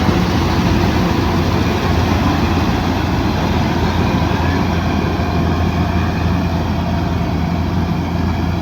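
Kubota DC108X combine harvester running steadily, its diesel engine giving a constant loud low drone with no change in pitch.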